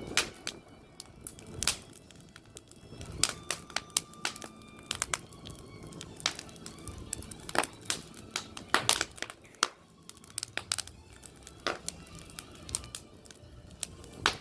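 Wood fire crackling, with sharp pops at irregular intervals.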